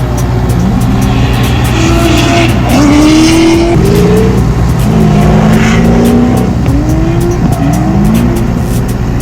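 Drift car engines revving hard, the pitch climbing and dropping again and again, with bursts of tyre squeal as the cars slide.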